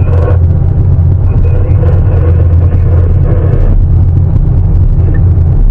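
Sany 750 hydraulic excavator's diesel engine running with a steady, heavy low rumble, with some added working noise in the middle.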